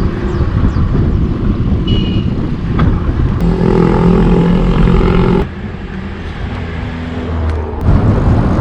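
Wind rumbling on the microphone of a moving bicycle, with a motor vehicle's engine running close by from about three and a half seconds in. The level drops suddenly a little past the middle and rises again near the end.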